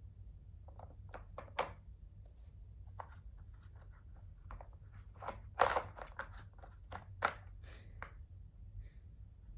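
Irregular clicks, knocks and rattles from a treat puzzle toy as a cat paws at its pieces to get the treats out. The sounds come in clusters, busiest and loudest a little past the middle.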